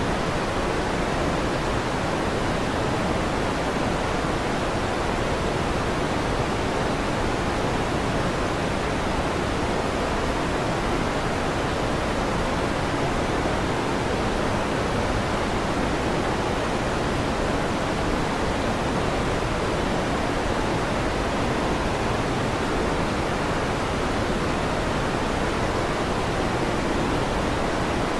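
Electric fan running with a steady, even whoosh that does not change, with no thunder claps.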